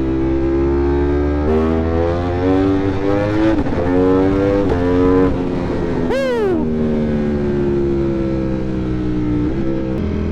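Aprilia Tuono V4 motorcycle engine under way, its pitch climbing in steps as it accelerates and shifts up through the gears. About six seconds in comes a sharp high whine that falls quickly in pitch. After that the engine note sinks slowly as the bike slows, with a downshift near the end.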